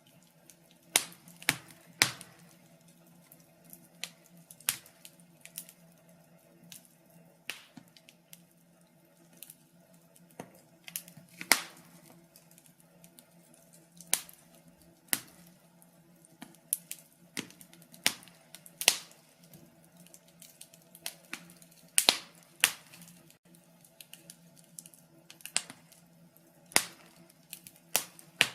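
Fireplace wood fire crackling: sharp, irregular pops and snaps, roughly one or two a second at uneven spacing, some much louder than others.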